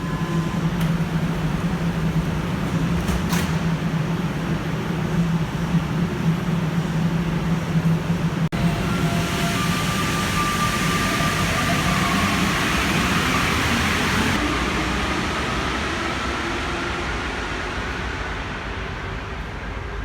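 Santiago Metro NS-93 train running: a steady low hum, then after an abrupt change about 8 seconds in, a louder rushing noise with faint rising motor whine that swells and then fades out near the end.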